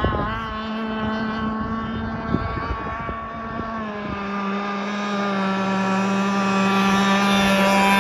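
Fuel-engined RC model catamaran running on the water: a steady, even engine drone that drops a little in pitch about four seconds in and grows louder over the last few seconds. The engine is new and still being broken in, so it is not run wide open.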